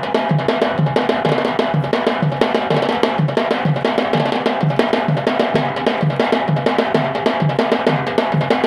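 Yemeni bara'a drumming in the Hashidi style: drums beating a steady rhythm, a low stroke about twice a second under quicker, sharper strokes.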